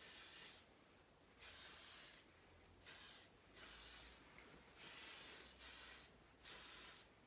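Sam McKnight Modern Hairspray aerosol spraying in a series of short hissing bursts, about seven, each lasting under a second with brief pauses between, as the finishing spray is misted over a styled head of waves.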